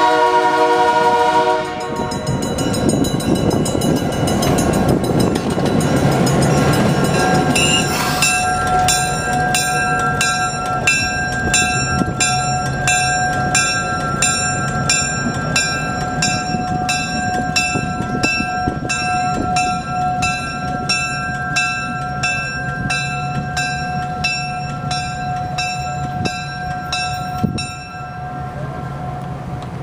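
Nathan K3L air horn on EMD GP7 locomotive No. 573 sounding a loud multi-note chord that cuts off about a second and a half in. The train then runs past, with steady running noise and a few steady tones, and from about 8 s in, evenly spaced clicks come roughly every two-thirds of a second. The sound drops near the end.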